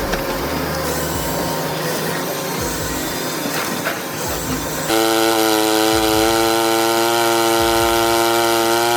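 Rough noise of wood and machinery, then about five seconds in a chainsaw engine comes in and runs at a steady high speed.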